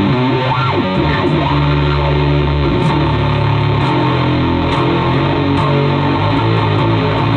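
Electric bass played through an Orange Terror Bass amp head and an Ampeg SVT 15E speaker cabinet, with a gritty, distorted tone. The notes are held and change about once a second, with a few sharper picked attacks in the second half.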